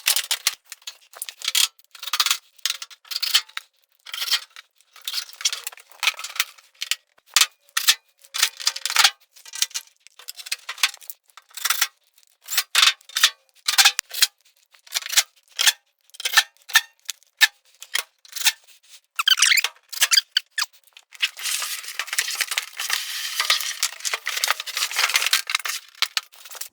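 Clicks, clatters and scrapes of sheet-metal panels and screws as a clothes dryer's side and top covers are refitted, with a brief squeal about two-thirds of the way through and a longer stretch of scraping near the end.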